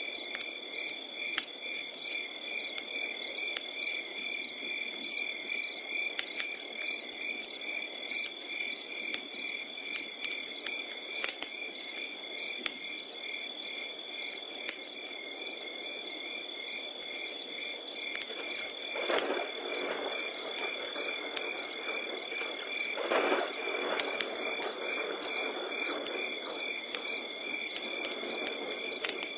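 Crickets chirping in an even, steady pulse over a crackling wood campfire, with scattered sharp crackles and a low hiss of flames. Two short, lower sounds stand out about two-thirds of the way through.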